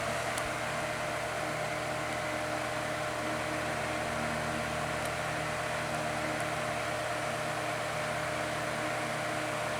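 Lasko 12-inch oscillating table fan running steadily on high speed: an even rush of air with a low, steady motor hum and a faint steady tone.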